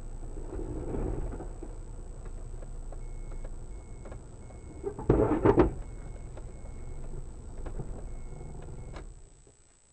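Car cabin road and engine rumble, with a faint string of short high beeps, about two a second, starting about three seconds in. A louder sound lasting about half a second comes about five seconds in, and the rumble fades away near the end.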